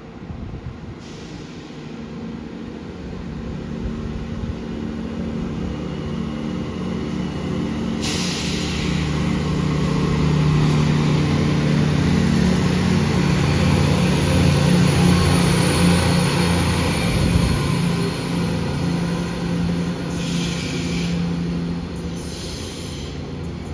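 A train approaching and running past close by. It grows steadily louder with a low hum, and a rush of wheel and rail noise comes in about a third of the way through. It is loudest about two-thirds in, and there are a few short high hisses near the end.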